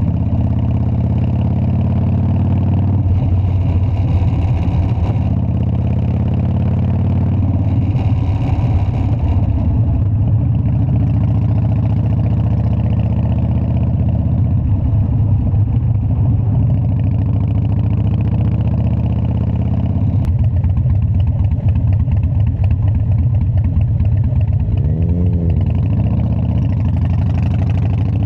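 Harley-Davidson Dyna's V-twin engine running steadily, with a short rise and fall in pitch a few seconds before the end.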